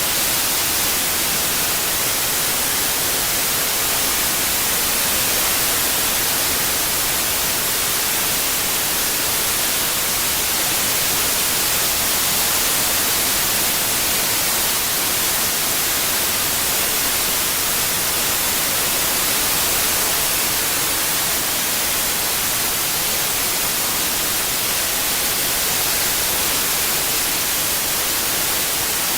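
Steady white noise, an even hiss strongest in the high frequencies, with no change over time.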